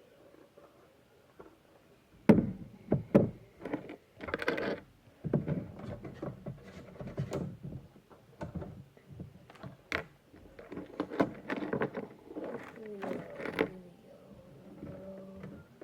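Funko figure box and its packaging being handled and opened: an uneven string of knocks, thuds and rubbing, loudest about two to five seconds in.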